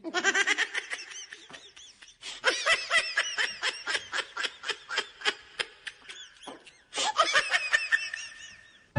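High-pitched, giggling laughter in quick repeated bursts, several a second, in three runs with brief pauses between.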